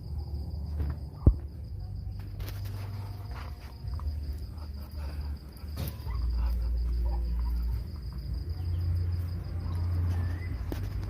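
Steady high-pitched insect chirring, typical of crickets, over an uneven low rumble, with one sharp knock about a second in.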